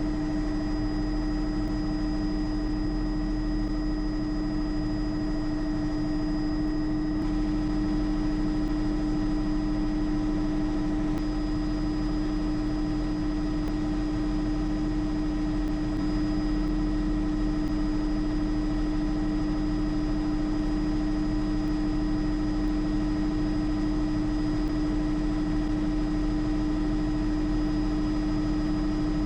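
Bell JetRanger helicopter in cruise flight: its Allison turboshaft engine and rotor make a steady drone with a constant whine, unchanging in level.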